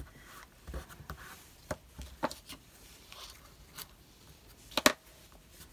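Paper and craft materials handled on a desk: scattered light taps and paper rustles, with one sharper knock a little before the end.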